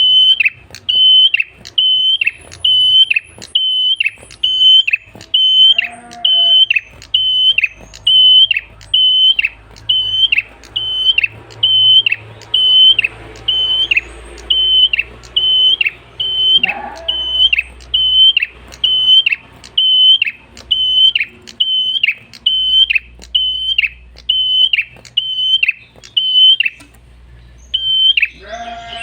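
An ashy tailorbird singing: a long series of short, clear, high, flat notes repeated a little faster than once a second in an even rhythm. The series breaks off briefly near the end and resumes.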